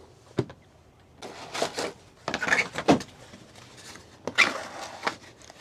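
Rustling, scraping and a few sharp knocks of things being handled and moved about while another paper plate is fetched, in several short bursts.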